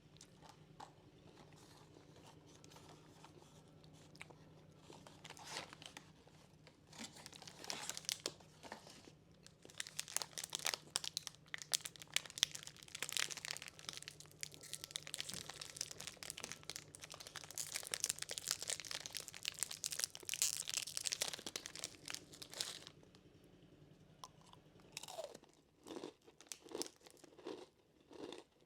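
Crunchy snacks being bitten and chewed close to the microphone for ASMR: quiet at first, then loud, dense crackling crunches through the middle, easing to a few separate softer crunches near the end. A faint steady hum sits underneath.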